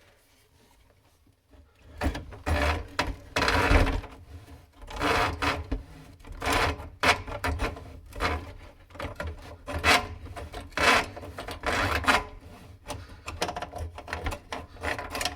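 Irregular rubbing and scraping noises, starting about two seconds in and going on in uneven strokes.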